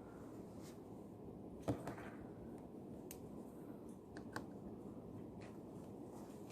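Quiet study-room ambience, a steady low hum, with one sharp desk tap about two seconds in and a few light clicks later on from pen and desk handling.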